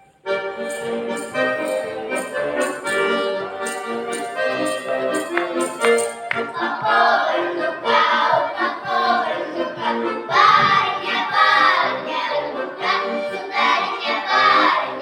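Accordion playing an introduction, with voices joining in about six seconds in to sing a Khopyor Cossack folk song.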